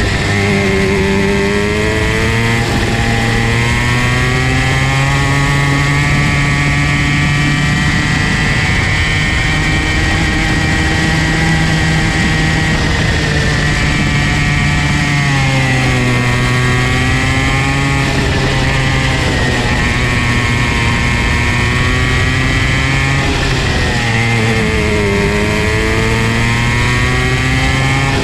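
Comer C50 50cc two-stroke kid-kart engine running at speed on track, its high, buzzing note dropping and climbing again several times as the kart slows for corners and accelerates out of them.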